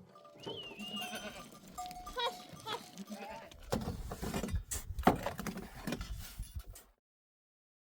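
Sheep and goats bleating, a few short calls, followed by louder rustling and a few sharp knocks. The sound cuts off suddenly about seven seconds in.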